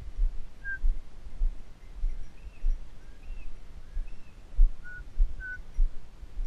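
Low, dull thuds about two a second, typical of a walker's footsteps on the ground picked up by a carried camera. Faint short bird chirps come now and then over them.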